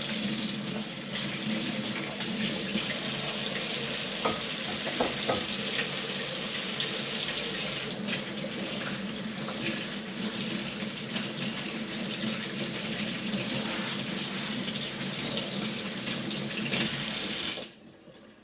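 Water running from a tap into a sink: a steady rush that grows stronger for a few seconds, with a few light clinks, then shuts off suddenly near the end.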